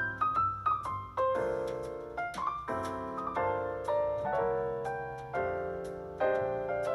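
Background piano music: a gentle keyboard melody over repeating chords.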